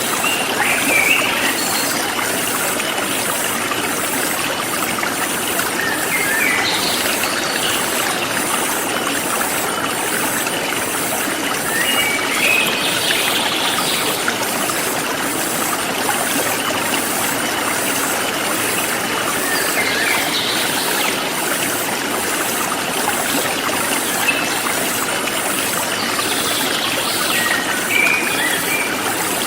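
Forest stream flowing steadily, with short bird chirps every six or seven seconds. A faint, evenly pulsing high insect chirr runs underneath.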